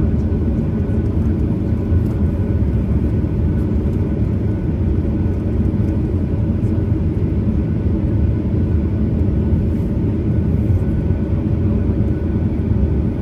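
Steady low rumble of a Boeing 737-900ER's CFM56-7B engines and airframe heard from inside the passenger cabin, with a faint steady hum over it.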